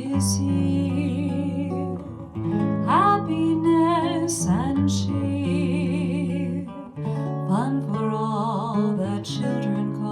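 Music: acoustic guitar playing slow chords under a held melody line with vibrato.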